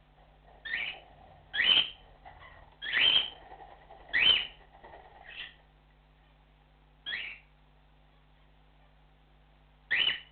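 Cockatiel giving its contact call, a series of short, loud, whistled chirps: five in quick succession over the first few seconds, then one at about seven seconds and another near the end.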